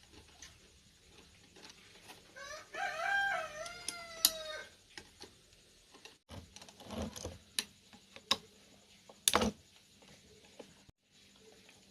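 A rooster crows once, starting about two and a half seconds in and lasting about two seconds. Scattered sharp clicks and knocks follow, the loudest near the end.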